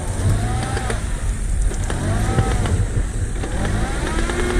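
Off-road vehicle's engine revved hard again and again, the pitch rising and falling with each blip of the throttle, the last rev held longer.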